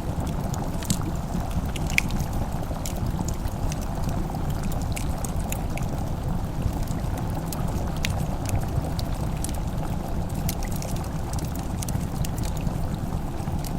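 Wood fire crackling in a fireplace: a steady low rumble of burning with irregular sharp pops and crackles.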